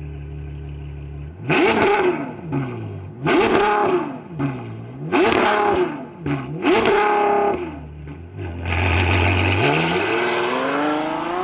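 Car engine idling, then revved four times, each rev rising and falling quickly in pitch. After a short idle it accelerates, its pitch climbing steadily toward the end.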